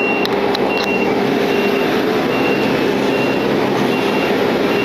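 Airport ramp ground vehicle's reversing alarm beeping at an even pace, about once every 0.8 s. Under it runs a loud, steady ramp noise of aircraft and ground equipment, with a hum that fades out about two seconds in.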